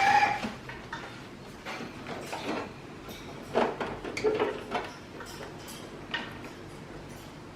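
Scattered plastic clicks, knocks and scrapes as the casing of a split-type air conditioner's indoor unit is taken apart.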